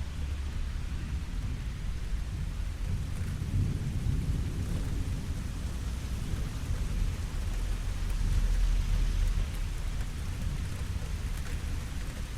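Steady rainfall with a low rumble of thunder underneath, swelling about four seconds in and again, louder, around nine seconds.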